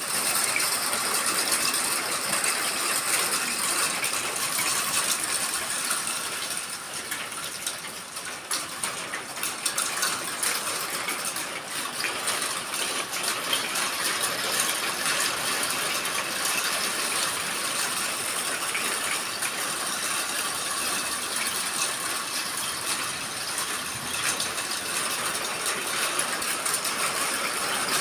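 Heavy storm rain pouring steadily, a dense patter of drops with no wind.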